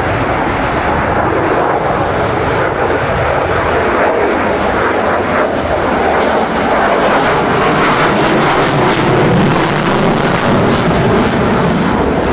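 Sukhoi Su-57 fighter's twin jet engines, a loud, steady jet noise as the aircraft flies its display.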